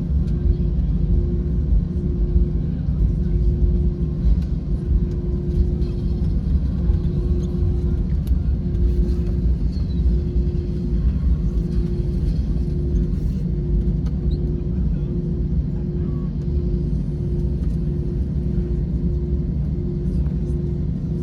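Airbus A321 running, a dense steady low rumble, with a faint hum that pulses on and off at an even rhythm.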